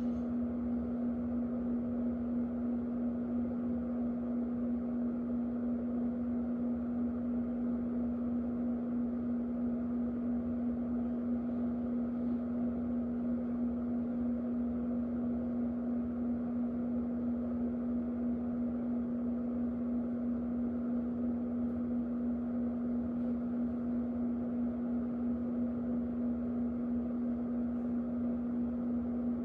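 Electric fan running steadily: an unchanging motor hum with a strong low tone over an even rush of moving air.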